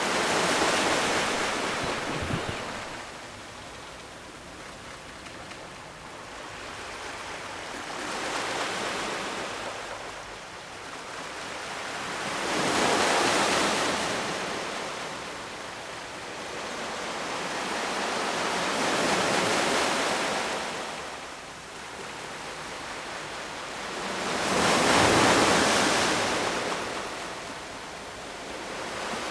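Ocean surf: waves breaking and washing up the shore, a rush of water that swells and falls away about five times, roughly every five to six seconds.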